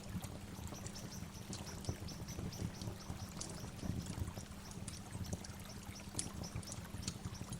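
Waterfall rushing steadily, with a bird chirping in quick repeated high notes in runs through it.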